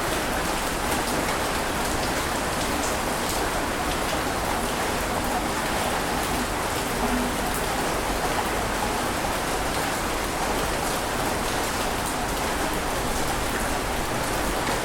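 Steady, even wash of water noise with a fine crackling patter and no rise and fall of separate waves.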